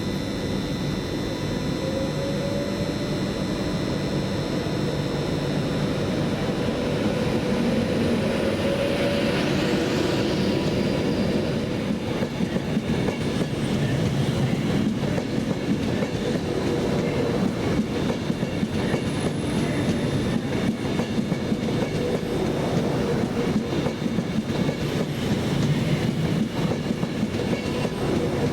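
A train running past, its wheels clattering over the rail joints in a steady stream of clicks that grows busier partway through.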